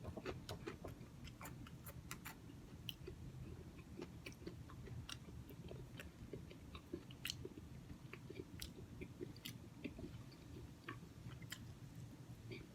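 Quiet, close-miked chewing of soft oatmeal, with many small sharp clicks and smacks scattered throughout.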